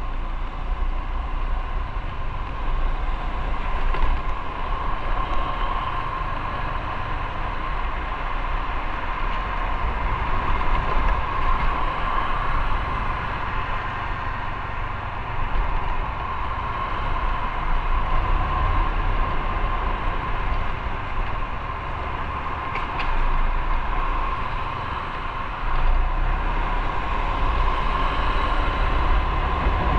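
Onboard sound of a motorcycle on the move: steady engine drone mixed with wind and road noise. A short click comes about three quarters of the way through, and the sound steps a little louder near the end.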